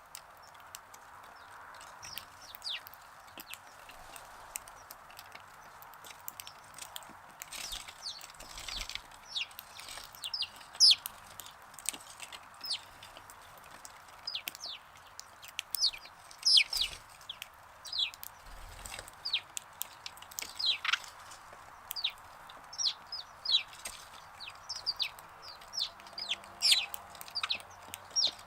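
Sparrows chirping: many short, sharp chirps in quick irregular series, growing busier after the first few seconds, over a faint steady background noise.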